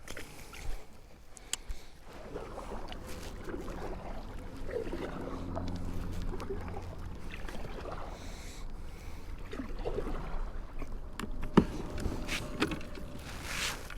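A kayak being paddled: irregular paddle strokes in the water, with a few sharp knocks, the loudest a little over two-thirds of the way through.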